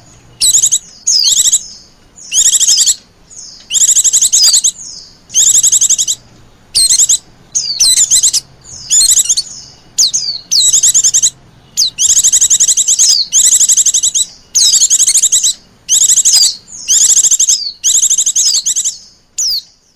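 White-eyes (pleci) calling as a bird-lure recording: fast, high, trilled chirping phrases, each under a second long, repeated over and over with short gaps between them.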